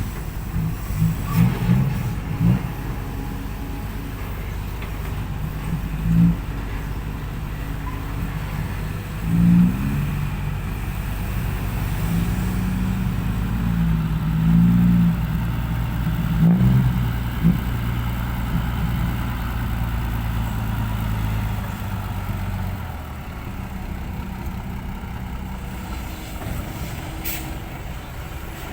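Heavy diesel engines of a ten-wheel dump truck and a loading excavator running, the engine note rising in several short revving surges. The low drone drops away about three-quarters of the way through.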